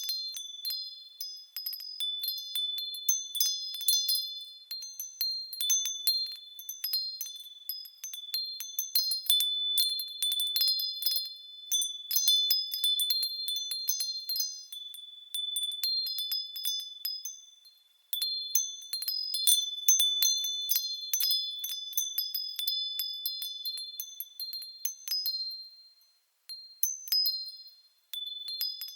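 Japanese furin wind bells ringing in the wind: an irregular run of quick, high tinkling strikes, each leaving a ringing tone. The ringing dies away briefly a few times in the second half.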